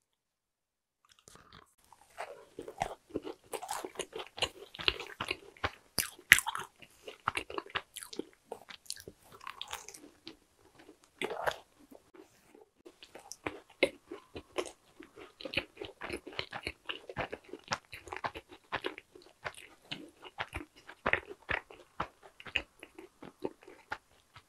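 A person biting into and chewing a chocolate cheesecake macaron, close to a clip-on microphone: irregular small clicks and soft wet mouth sounds, starting about a second in and running on in uneven strokes.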